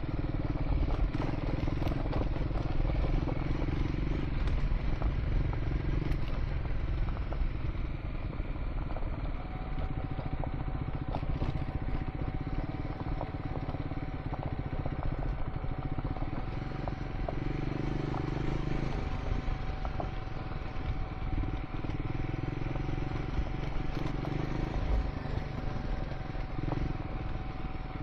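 Triumph Scrambler 400 X's single-cylinder engine running on a gravel track, its note rising and falling with the throttle, with stones clattering under the tyres.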